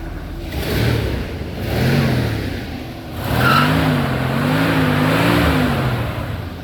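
6.6-litre V8 of a Mercury Monterey Custom revving, its pitch rising and falling: two short rises in the first two seconds, then a longer stretch of wavering revs that fades near the end.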